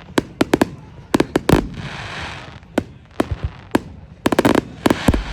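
Fireworks display: an irregular run of sharp bangs, often several in quick succession. A crackling hiss follows a cluster of bursts about a second and a half in.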